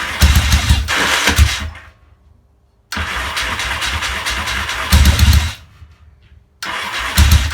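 Yamaha XS650 parallel-twin engine running roughly with bursts of throttle. Twice it dies away as it fails to hold an idle, and each time the engine sound cuts back in abruptly. The owner suspects the carburettors are over-jetted.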